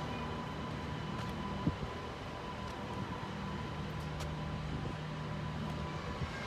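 Steady electric hum of a Sydney Metro train standing at the platform, with a faint high whine that fades out partway through and a single click a little under two seconds in.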